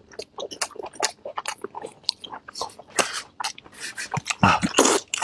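A person chewing food close to the microphone: a quick run of wet mouth smacks and clicks, with a louder, longer smack about four and a half seconds in.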